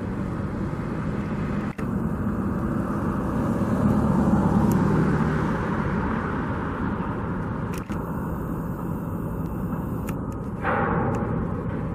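Steady outdoor rumble of passing road traffic with wind, swelling a few seconds in and then easing off.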